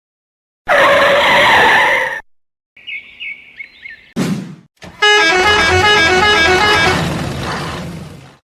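A string of cartoon-style sound effects: a loud blaring horn-like tone for about a second and a half, a few faint short chirps, a quick swoosh, then a tune of short stepping notes for about three seconds that fades out.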